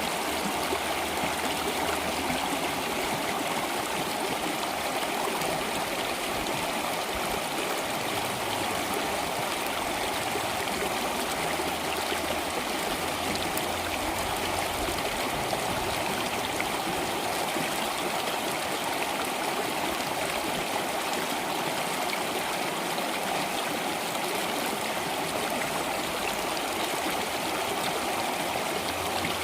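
Water flowing in a stream, steady and unbroken.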